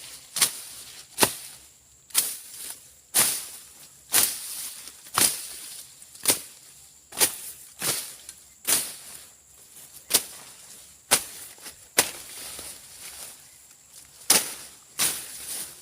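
Brush being slashed with a hand blade: sharp swishing chops through weeds and cassava stalks, about one stroke a second, some strokes quickly doubled.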